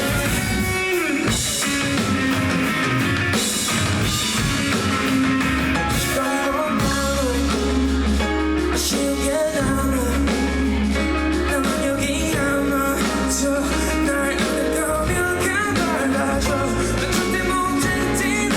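Live rock band playing: electric guitar, bass and drums, with a wavering melodic lead line on top. A heavy, held bass comes in about seven seconds in.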